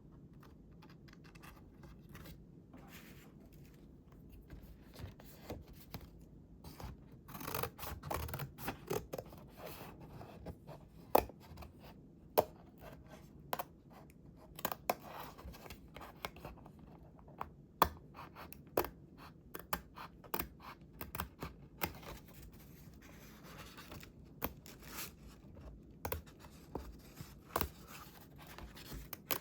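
Scissors cutting paper: a run of short, irregular snips after a few quiet seconds, with a couple of sharper clicks.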